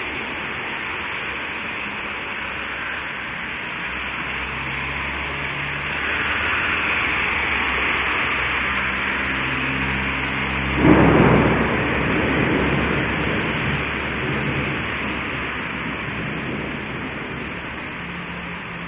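Thunderstorm: rain falls steadily while thunder rumbles in from about four seconds in, then a loud thunderclap about eleven seconds in rolls on and fades.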